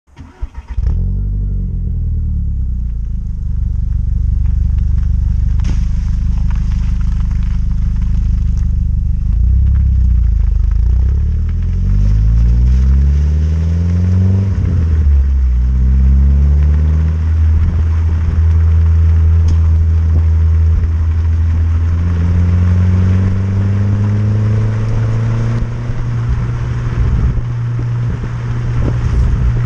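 Mk4 Volkswagen GTI with a cat-back exhaust starting up within the first second, then idling. It is revved several times, the pitch rising and falling, and held at raised revs for a few seconds once, before dropping back to idle near the end.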